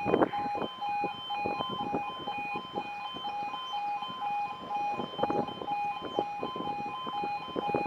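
Level crossing warning alarm: an electronic two-tone alarm pulsing steadily, the signal that a train is approaching and the barriers are closing or closed. Irregular short knocks sound underneath.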